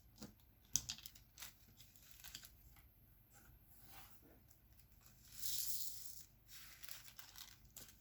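Small plastic handling sounds of diamond-painting work: scattered light clicks and crinkles, with a longer tearing rustle about five and a half seconds in, as packaging or the canvas's protective film is opened.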